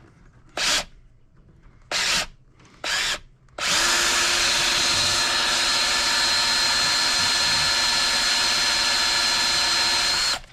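Powered wire stripper's motor, run in three short bursts and then held running steadily for about six and a half seconds with a constant high whine, stopping just before the end.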